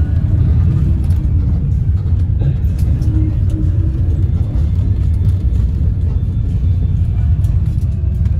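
Steady low rumble of engine and road noise heard from inside a moving bus's passenger cabin, with faint music in the background.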